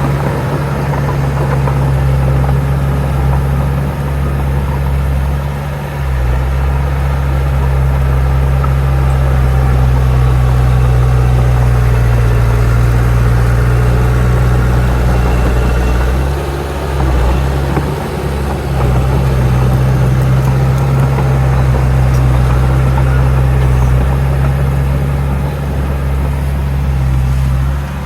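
Heavy diesel engine of earthmoving machinery running steadily with a low drone, dipping briefly about six seconds in and again between about sixteen and nineteen seconds.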